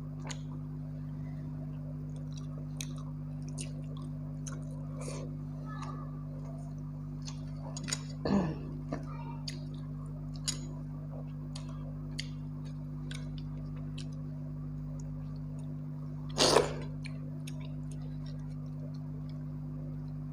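Close-miked chewing and wet mouth clicks of someone eating watered rice and curry by hand, with two louder mouth noises, one a little before the middle and one about two-thirds through. A steady low hum runs underneath.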